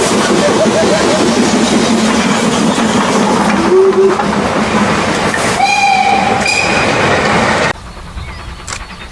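Steam train running close by with a loud, steady rush of noise, and a whistle sounding for about a second partway through. Near the end the train sound cuts off suddenly, leaving a much quieter background.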